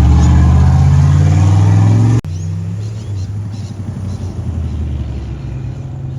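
Car engine running loud with its revs rising gently, cut off suddenly about two seconds in. A quieter, steady engine rumble follows.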